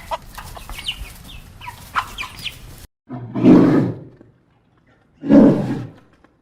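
Chickens clucking, then after an abrupt cut a large animal roaring twice, each roar loud, about a second long and a second apart.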